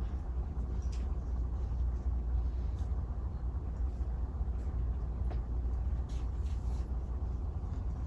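A steady low hum of room noise with a few faint ticks, and no speech.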